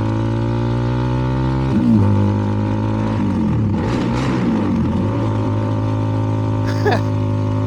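CFMoto 300NK's single-cylinder engine running through a KO aftermarket exhaust, heard from the rider's seat. Its note changes about two seconds in, dips and rises in pitch for a couple of seconds in the middle, then runs steady again.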